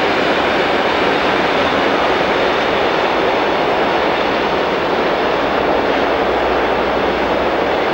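Diesel train running past, a steady, even noise that holds level throughout.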